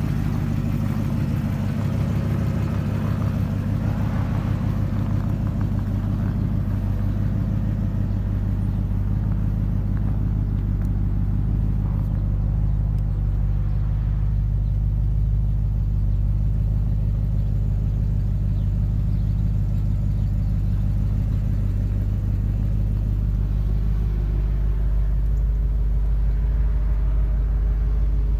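1965 Oldsmobile Cutlass 442's 400 cubic-inch V8 idling steadily, a low even rumble.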